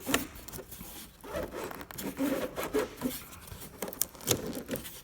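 Plastic air intake parts rubbing, scraping and clicking as the intake is disconnected and worked loose from the air filter housing, in irregular bursts.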